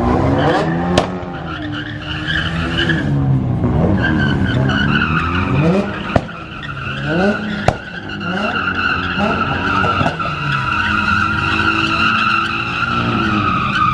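Car tyres squealing in a long steady screech while the engine revs rise and fall again and again, with a few sharp bangs along the way.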